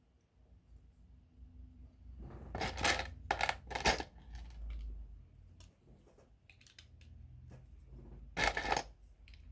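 Loose plastic LEGO pieces clattering and clicking as they are handled, in short bursts, with the loudest clatter about three seconds in and again near the end.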